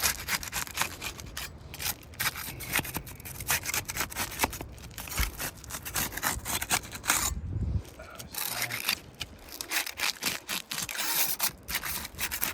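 Asphalt roof shingles being broken loose from their adhesive seal strips, a tool worked underneath them in quick, irregular scraping and rasping strokes.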